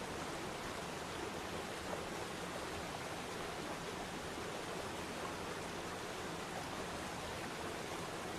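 Waterfall splashing into a pond: a steady, even rush of falling water.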